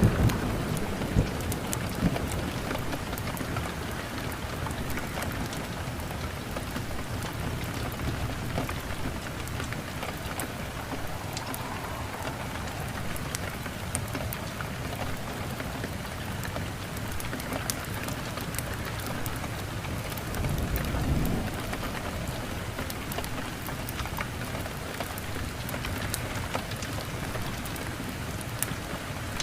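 Steady heavy rain falling, with a roll of thunder dying away at the start and another low rumble of thunder swelling and fading about two-thirds of the way through.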